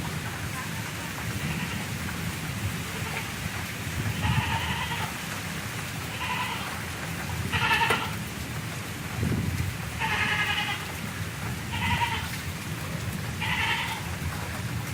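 Steady rain falling, with a cat meowing six times at intervals of one to two seconds, each call a short high cry.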